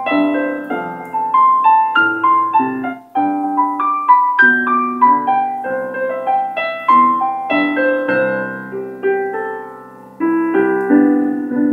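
Piano playing a rumba-style broken-chord intro over C, F, G and C chords, the notes of each chord rolled out in a steady run, with a brief break about three seconds in.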